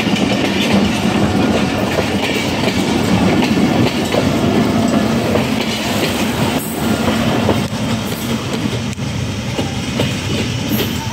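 Passenger coaches of a departing express train rolling past close by, their wheels clattering over the rail joints. The noise eases a little after about eight seconds as the last coach passes and the train draws away.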